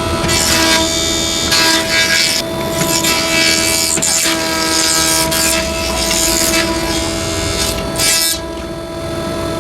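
Wood lathe running with a steady motor whine, while a turning tool cuts into the spinning wood in repeated hissing strokes.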